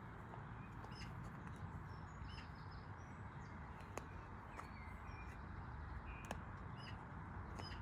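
Birds chirping, short calls scattered throughout, over a steady background hiss, with two faint sharp clicks, the first about halfway through.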